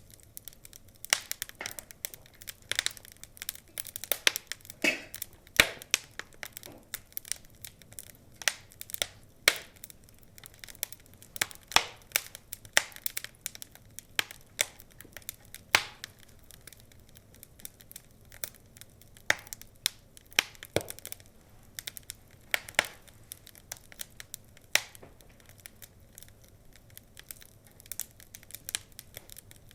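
Burning logs of a wood fire crackling, with irregular sharp snaps, a few louder than the rest, over a low steady hiss.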